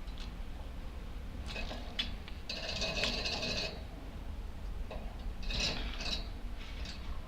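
Budgerigars chattering in short, scratchy bursts, the longest about halfway through, with a sharp click about two seconds in.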